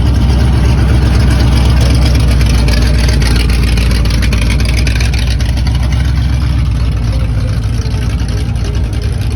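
Classic car engine running with a loud, deep, steady rumble that eases off slightly past the halfway point.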